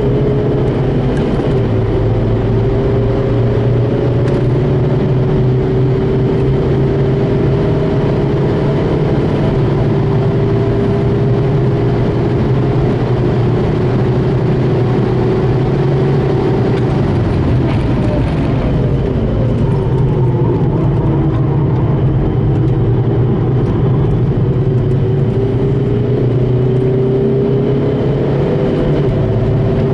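Remapped 2.0 TDI PD eight-valve four-cylinder diesel engine of a VW Golf Mk5, running hard on track. The revs climb slowly for the first half, fall over a couple of seconds past the middle as the car slows, then climb again.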